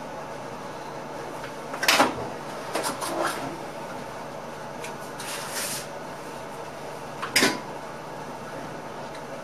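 Inside the driving cab of an ICM electric train under way: a steady running hum with a few sharp clunks, the loudest about two seconds in and again about seven seconds in, with lighter knocks between.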